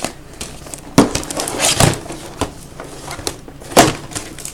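Cardboard boxes of trading cards being handled and set down: a few sharp knocks, about one second in, twice near two seconds and again near the end, with light rustling between.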